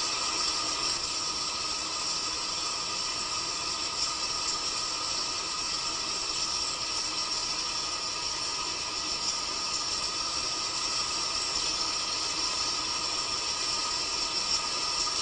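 Recorded rain falling steadily: an even, continuous hiss.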